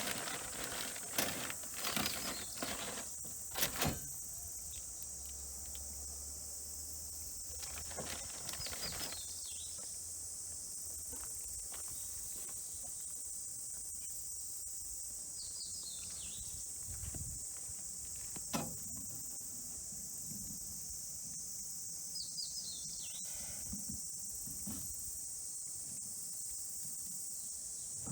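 A steady, high-pitched insect chorus. A bird calls several times in short runs of falling chirps, and a few knocks and rustles come in the first few seconds and once midway.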